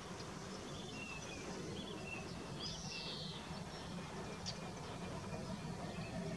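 Small birds chirping and calling in short phrases, over a faint steady low rumble that grows slightly louder toward the end.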